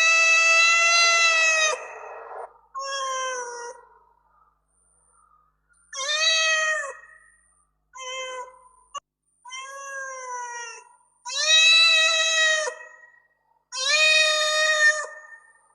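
Domestic cat meowing repeatedly: one long drawn-out meow, then about six shorter meows with short pauses between them, a few with a gentle rise and fall in pitch. A brief click is heard near the middle.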